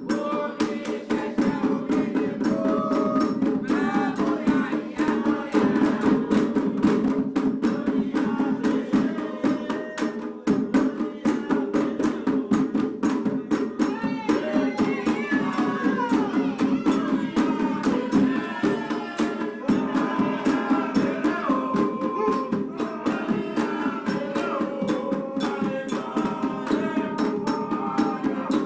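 Candomblé drumming on atabaque hand drums, a rum rhythm for Oxum, with fast steady strokes under voices singing.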